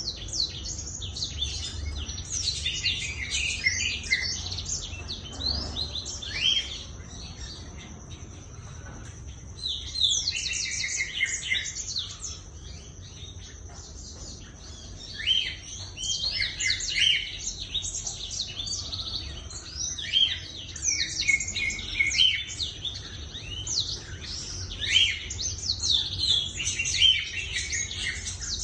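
Blackthroat (black-throated canary) singing a fast, twittering song of rapid chirps, in bursts separated by pauses of a few seconds, with a faint steady high whine underneath. It is the bird's full, prolific 'gacor' song, used as a lure recording to set other caged songbirds singing.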